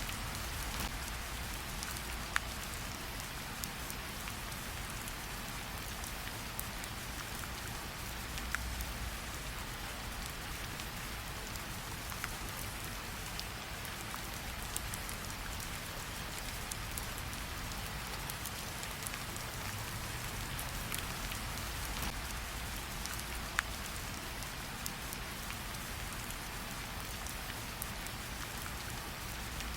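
Steady rain falling, with a campfire crackling under it in scattered sharp pops, a few louder than the rest.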